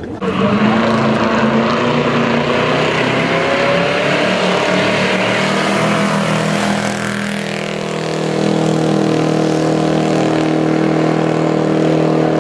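Hot rod engine held at high revs during a burnout, rear tyres spinning on the pavement. The revs climb over the first few seconds, sag briefly about seven seconds in, then hold steady and high.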